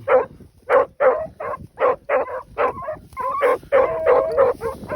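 A pack of beagles baying on a rabbit's track, a steady run of short barks about two to three a second from several dogs.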